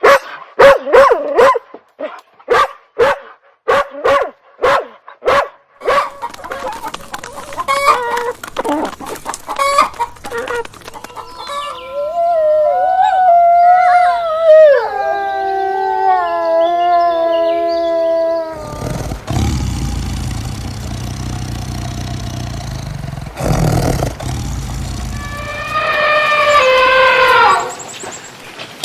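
A succession of farm animal calls: quick repeated calls for the first several seconds, then a long wavering call, and a rooster crowing near the end, among a noisy stretch of farmyard sound.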